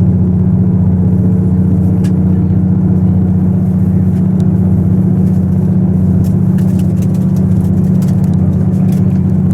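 KiHa 85 series diesel railcar's Cummins engine running steadily under way, a constant low drone, heard from inside the train, with a few faint clicks over it.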